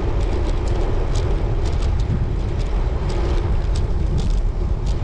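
Wind buffeting the microphone of a moving road bike, a loud, unsteady low rumble, with scattered faint clicks over it.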